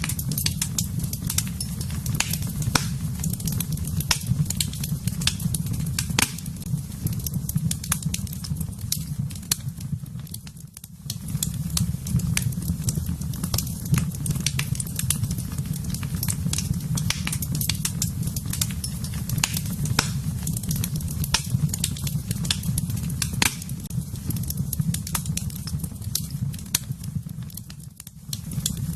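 Fire burning in a fireplace: a steady low rumble of flame with frequent sharp crackles and pops. The sound dips briefly about ten seconds in and again near the end.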